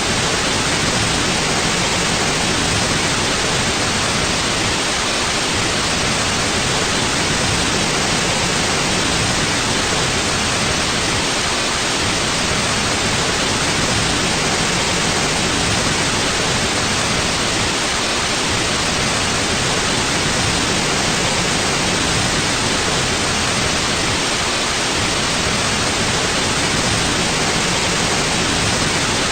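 Steady, unchanging white noise: an even hiss spread across low and high pitches alike.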